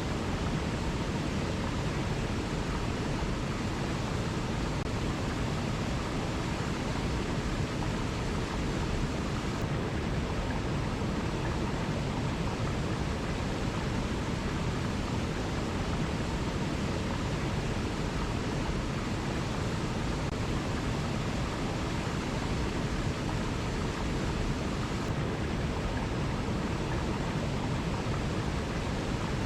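Waterfall: water rushing steadily and evenly.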